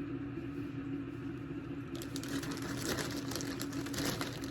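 Packaging rustling and crinkling as small items are handled, starting about two seconds in, over a steady low hum.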